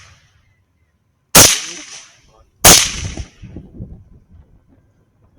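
Two rifle shots about a second and a half apart, each with a trailing echo, fired at feral hogs.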